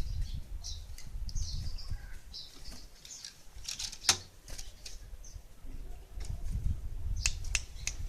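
Gelatik wingko bird giving short, high chirps over and over, with a few sharp clicks among them and a low rumble underneath.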